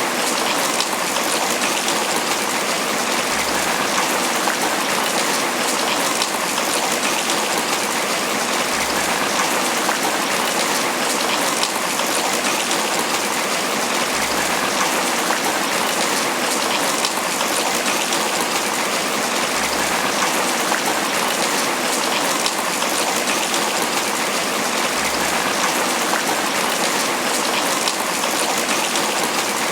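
Steady tropical rain falling on banana leaves, a dense, even patter of drops on the broad leaves.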